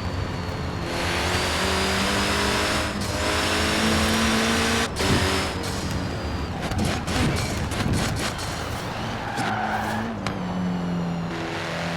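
Datsun 510's engine running, revved up and held at raised revs for a few seconds, settling lower in the middle, then revved up and held again near the end.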